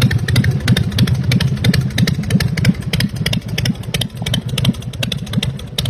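American IronHorse LSC chopper's V-twin engine idling, a steady low rumble.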